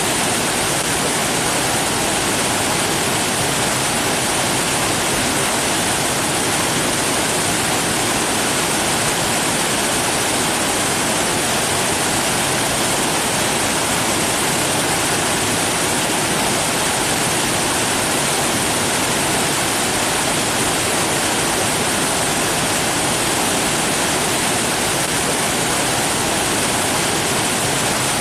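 Steady rushing water, an even unbroken wash of noise with no changes or separate sounds.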